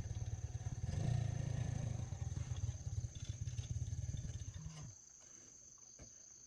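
Small engine, motorbike-like, running with an even pulsing beat, briefly rising in pitch just before it cuts off about five seconds in. Crickets chirp steadily.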